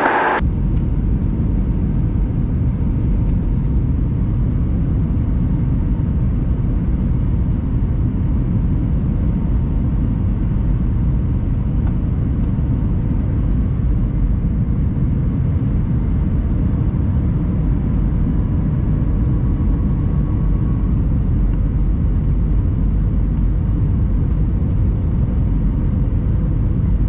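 Steady low rumble inside the cabin of an Airbus A320 in flight: engine and airflow noise, with faint steady tones over it.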